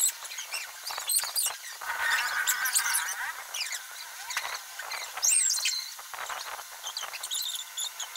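Birds chirping and calling, many short high chirps and quick up-and-down whistles overlapping.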